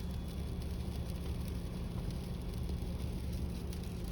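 Steady low rumble and hum of a car heard from inside its cabin, the engine running while stopped or creeping in traffic.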